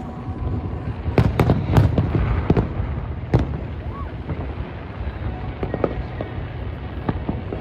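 Fireworks going off: a quick cluster of sharp bangs between about one and three and a half seconds in, then scattered fainter pops over a steady low rumble.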